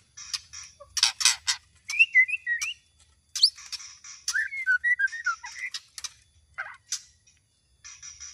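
White-rumped shama (murai batu, Medan type) singing a varied song: rapid sharp clicking notes mixed with short whistled phrases that slide up and down, with brief pauses between phrases.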